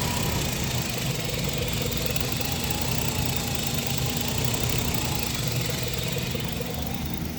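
2004 GMC Yukon's V8 engine idling steadily.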